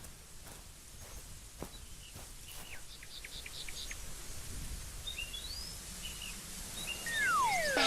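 Small birds chirping in short calls and trills over a steady outdoor hiss. A few faint clicks come in between, and near the end there are two long falling whistled glides.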